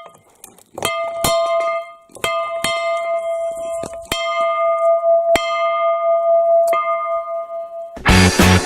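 A bell struck several times at uneven intervals, each strike ringing on with a clear tone. Rock music with guitar starts near the end.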